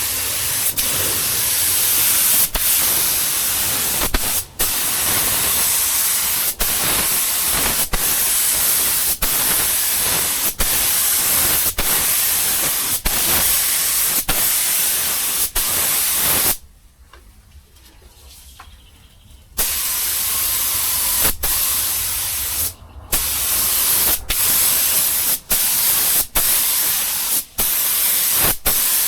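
Paint spray gun hissing steadily as it lays a coat of paint, cut by short breaks about every second as the trigger is let off between passes, with one longer stop of about three seconds in the middle.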